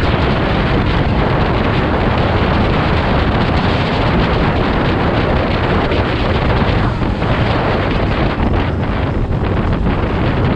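Loud, steady wind buffeting the microphone of a moving dirt bike, with the motorcycle's engine and road noise running underneath.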